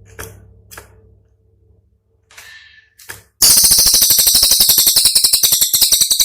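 Cililin song: a few short, sharp separate notes and a brief chirp, then about three seconds in a very loud, rapid rattling trill of sharp notes, roughly fourteen a second. This is the fast 'tembakan' burst that songbird keepers use to tutor other birds.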